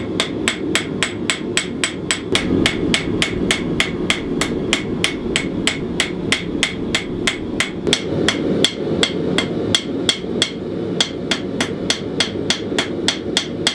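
Hand hammer striking hot steel on an anvil to forge a knife blade, a steady run of about four ringing blows a second, over a steady rushing noise.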